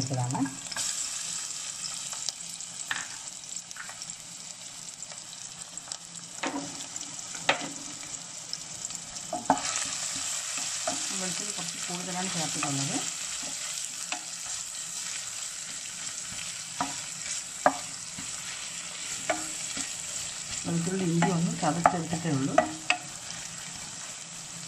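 Chopped garlic sizzling steadily as it fries in hot oil in a pan. A spatula stirs it, scraping the pan at times and giving occasional sharp taps.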